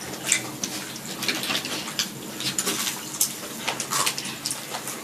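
Close-miked chewing of grilled cheese sandwiches: a run of short, irregular crisp crunches and wet mouth clicks.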